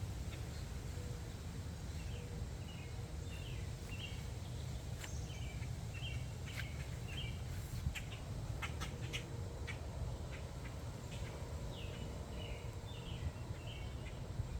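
Small birds chirping in short runs of quick notes, three times, over a steady low rumble, with scattered light clicks.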